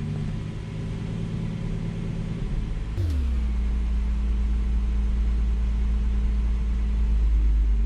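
BMW B58 turbocharged inline-six engine idling. About three seconds in there is a sharp click, then the engine note drops and settles into a steady, deeper idle.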